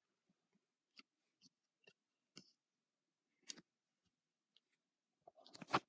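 Hot Wheels toy cars and plastic car-wash playset being handled: faint scattered clicks and taps about a second apart, with a louder cluster of knocks and rattles near the end.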